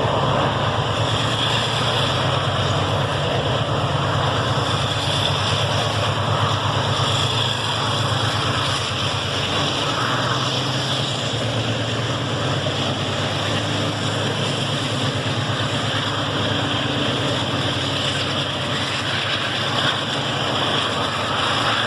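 A train running by steadily: a constant low engine drone with an even rushing rumble, easing slightly about halfway through.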